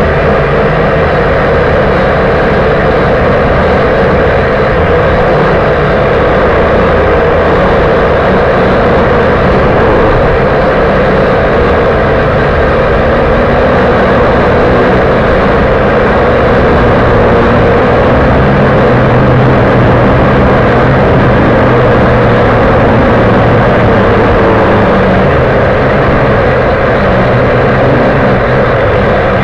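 Loud, steady buzz of a V959 mini quadcopter's small electric motors and propellers, heard through its own onboard camera's microphone.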